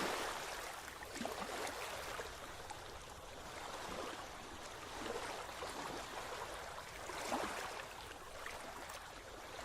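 Moving water, an even wash of noise with irregular swells and small splashes.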